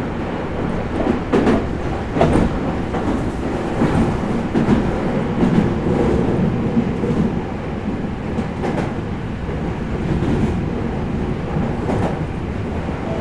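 Meitetsu 4000 series electric train running, heard from inside the car: a steady rumble of wheels and motors, with irregular clicks as the wheels pass over rail joints.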